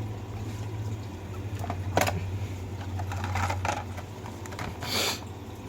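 Small die-cast toy cars and their packaging being handled. There is a sharp click about two seconds in, a few lighter clicks after it, and a short rustle near the end, over a low steady hum.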